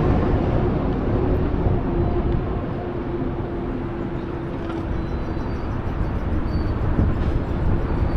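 Wind and road noise of a car driving through city traffic, picked up by a camera mounted on the car's roof: a steady low rumble.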